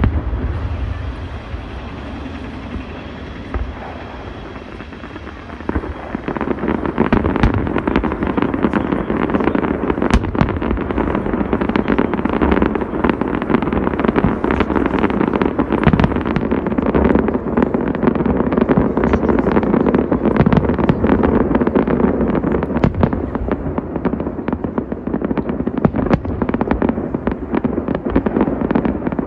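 Large fireworks display. A loud bang right at the start fades away, then from about six seconds in comes a dense, continuous barrage of rapid pops and bangs that keeps going.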